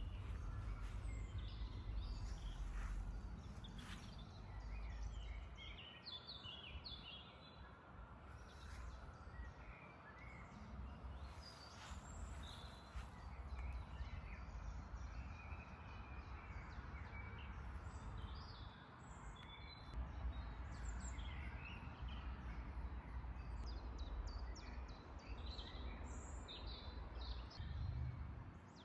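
Songbirds singing and chirping in short scattered calls, over a low steady rumble.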